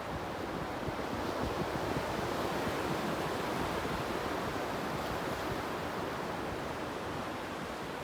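Ocean surf at the beach, a steady rush of breaking waves, with some wind on the phone's microphone.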